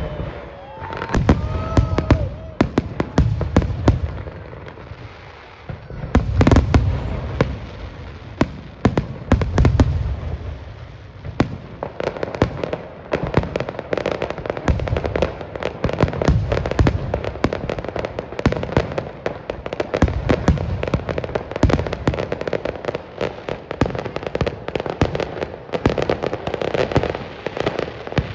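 Fireworks display: heavy booms of aerial shells bursting, then about halfway through a long run of dense crackling and popping.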